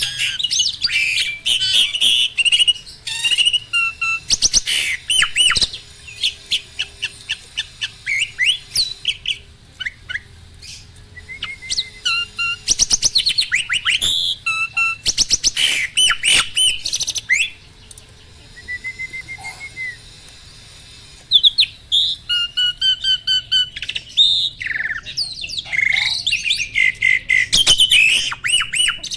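Male jalak (starling) singing continuously: a busy, varied string of sharp chirps, whistled notes and fast rattling clicks, with a short lull in the middle. This vigorous song goes with the pumping display of an adult male in breeding condition.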